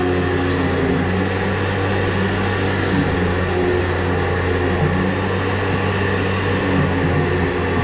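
Steady hum of an electric motor running without a break, at an even level throughout.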